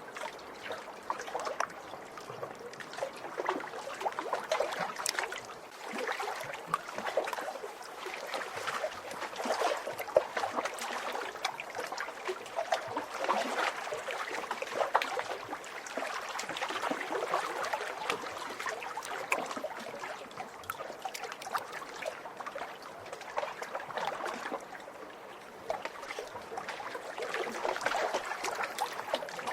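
Small waves splashing and lapping against a lakeshore, a steady run of little splashes that swells and eases every few seconds.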